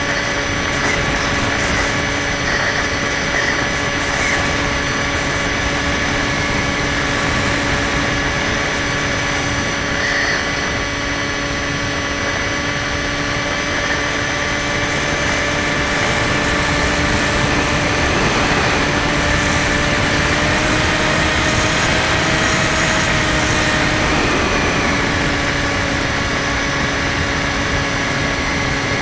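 Skywalker 1680 RC plane's electric motor and propeller running with a steady whine over wind noise. The pitch rises a little a bit past halfway and then settles back.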